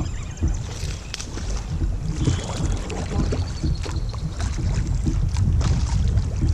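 Wind rumbling on the microphone of a kayak-mounted camera, with water around the kayak and scattered small clicks and taps from handling gear.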